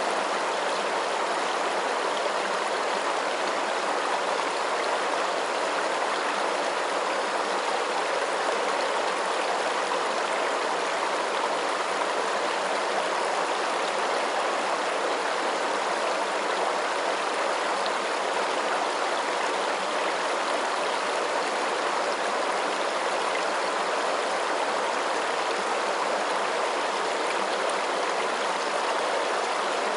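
Steady, unbroken rushing of flowing water, a stream or small cascade, with an even hiss and no distinct splashes or changes.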